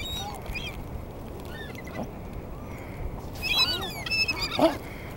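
Seagulls calling: many short, high cries in overlapping bursts, thickest in the second half.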